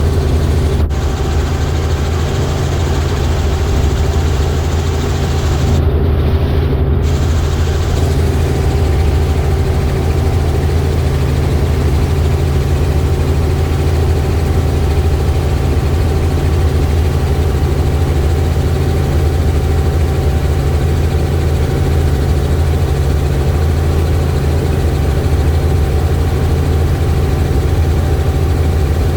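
Helicopter engine and rotor drone heard from inside the cabin, steady and loud, with a thin steady whine from about a second in.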